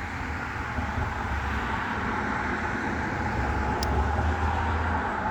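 Road traffic: a motor vehicle going by, its engine and tyre noise slowly growing a little louder.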